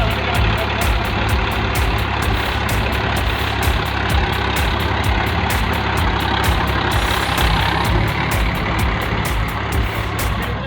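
Diesel engine of a VST Shakti tractor running steadily, with a fast, even clatter.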